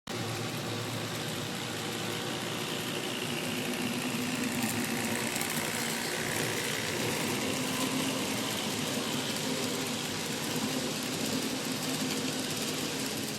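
Steady mechanical running noise, like an engine, that fades out at the very end.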